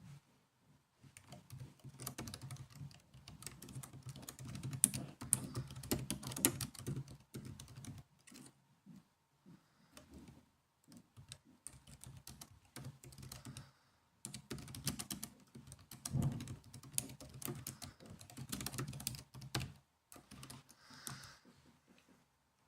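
Typing on a laptop keyboard: two long runs of rapid key clicks, with slower, scattered taps between them and near the end.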